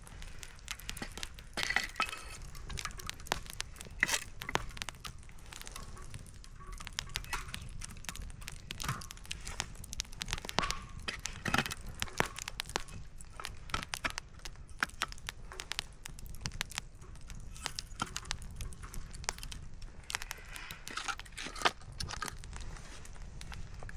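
Campfire firewood crackling and popping: irregular sharp snaps, some louder than others, over a low steady rumble.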